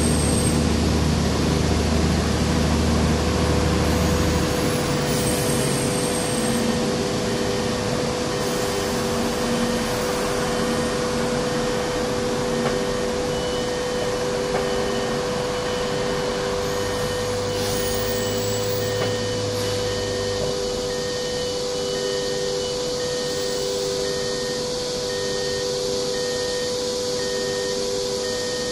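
CRH2A high-speed electric multiple unit rolling slowly past: a steady running noise with a constant hum, and a low rumble in the first few seconds and again briefly in the middle. It eases off slightly as the train draws away.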